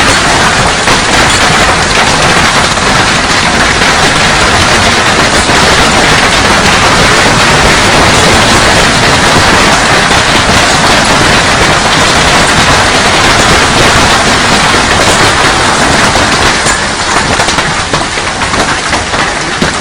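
Hailstones pelting down in a heavy hailstorm, a dense, loud clatter of countless ice impacts that eases slightly near the end.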